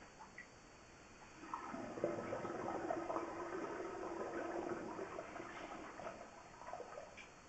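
Water rushing through drain plumbing, like a toilet flush draining, starting about a second in, swelling, then slowly fading near the end.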